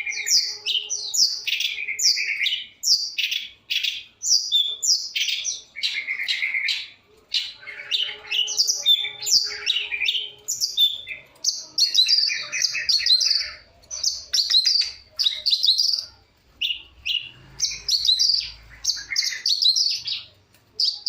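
Long-tailed shrike singing a busy, varied song: rapid strings of short chirps, whistles and trills with only brief pauses.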